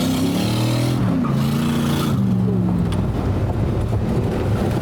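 Truck engine revving: the pitch climbs for about a second, drops, holds briefly, then drops again and dies away about three seconds in. A rushing hiss accompanies it over the first two seconds.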